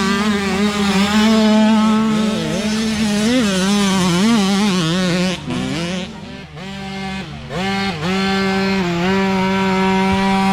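Mini dirt bike engine revving hard at high revs, its pitch wavering with the throttle. A little past the middle the revs drop off and pick up again a few times, then hold high and steady.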